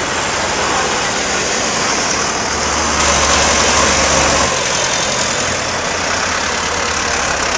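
Tractor engines running steadily, with one engine louder and deeper for a couple of seconds around the middle.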